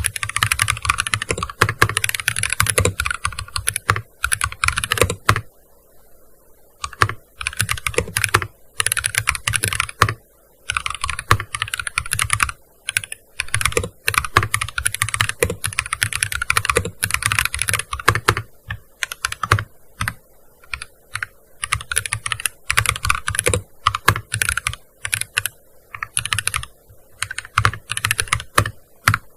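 Fast typing on a gaming keyboard: runs of rapid key clicks broken by short pauses, as text is written in bursts.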